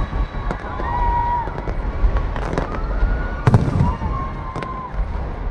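Aerial fireworks shells bursting with sharp booms, several in a few seconds, the loudest about halfway through, over a continuous crackle. Faint crowd voices sound underneath.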